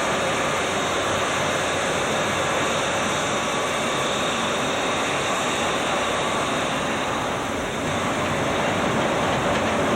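Jet airliner engines running: a steady, dense noise with faint whining tones in it, easing briefly about three-quarters of the way through.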